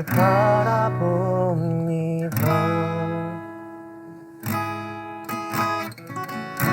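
Acoustic guitar strummed in a slow worship song, with a voice singing a held, wavering line over it in the first second or two.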